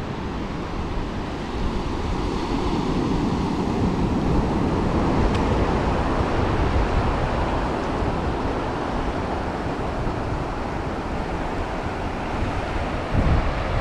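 Ocean surf washing onto a sandy beach, a wave swelling and easing off, with wind buffeting the microphone in a few low rumbles near the end.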